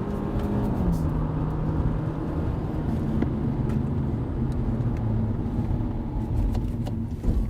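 Hyundai Avante (CN7) engine with its CVT, heard from inside the cabin while driving: a steady engine drone over tyre and road noise. Its pitch drops a step about a second in, then holds steady.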